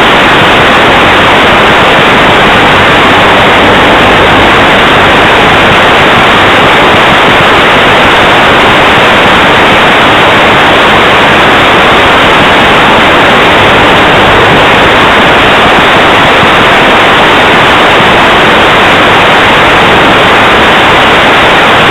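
Loud, steady static hiss from an analog FPV video receiver, with nothing else coming through: the radio link carries no signal.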